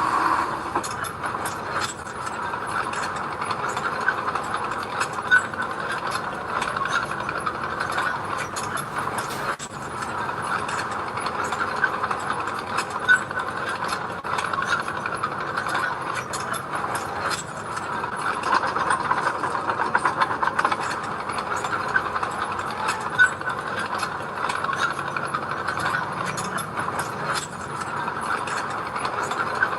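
Bulldozer working, its engine running under a steady metallic rattle and clicking from the machine, with a few sharper clanks now and then.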